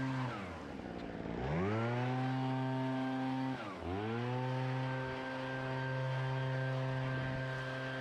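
Small gas lawn-equipment engine running at high revs. Its speed drops off at the start and rises back to full, then dips briefly again about three and a half seconds in before holding steady.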